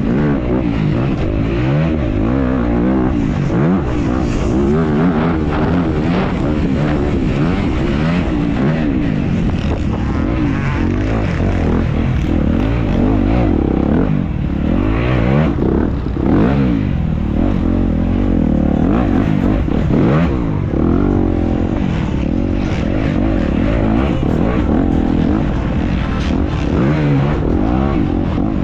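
Motocross bike engine under hard riding, its pitch climbing and dropping over and over as the throttle is worked and gears change.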